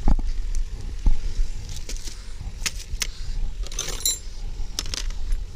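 Scattered sharp clicks and metallic clinks of tools and metal parts being handled during a car battery replacement, with one short ringing clink about four seconds in, over a steady low hum.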